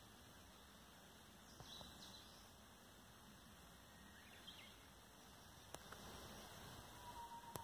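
Near-silent outdoor quiet with faint hiss, broken by a few faint bird chirps and a short whistled note near the end, plus a couple of small clicks.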